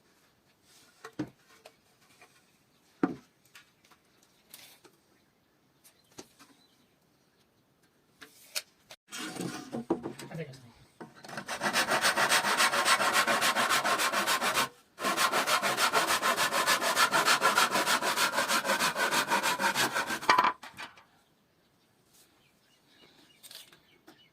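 A tool working hardwood with a rasping, sawing sound in rapid, even strokes for about ten seconds, with a brief break partway. A few light knocks come before it.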